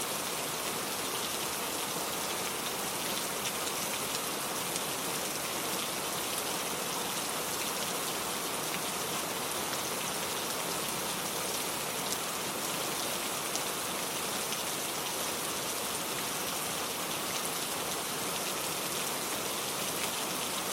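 Steady rainstorm: a dense, even hiss of falling rain with fine patter of individual drops, unchanging throughout.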